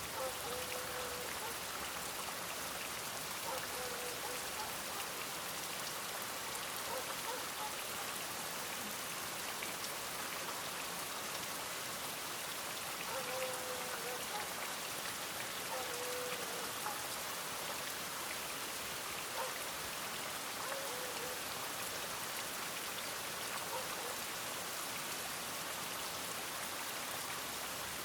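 Steady rain falling and pattering on surfaces, an even hiss with no break. A few faint short tonal sounds rise briefly out of it now and then.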